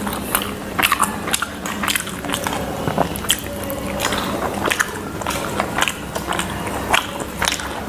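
Close-miked chewing and mouth sounds of people eating steamed chicken momos, with frequent short wet clicks and smacks over a steady low hum.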